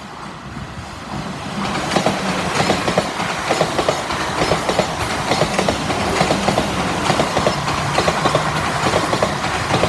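A pair of Class 444 Desiro electric multiple units passing through the station at speed. The wheels click rapidly over rail joints over a steady traction hum, and the sound builds up about a second and a half in.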